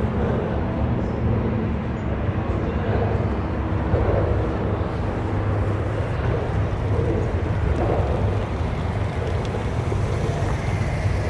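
Car engine running steadily, a low rumble, with people talking in the background.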